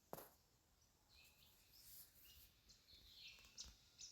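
Near silence with faint bird chirps and one or two soft clicks.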